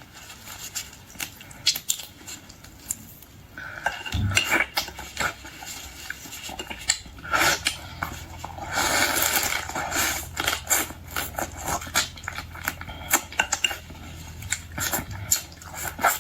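Cutlery clinking and scraping against dishes, in many short sharp knocks, with a longer rustle about nine seconds in and a low hum that comes in about four seconds in.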